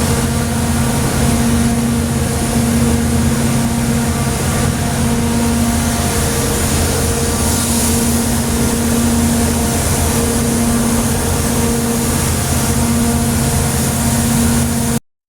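Sawmill machinery running with a steady mechanical drone and a constant hum; it cuts off abruptly near the end.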